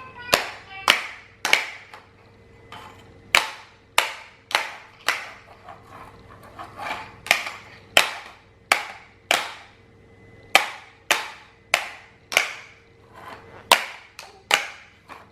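A plastic toy being banged repeatedly against a hard surface by a baby: sharp knocks about every half second at an uneven pace, each with a short ringing tail.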